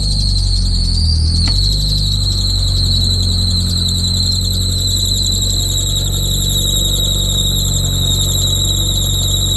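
Toyota Starlet turbo's four-cylinder engine running cold just after starting, with a steady high-pitched squeal over a steady low note. The freshly re-gasketed exhaust manifold is not blowing.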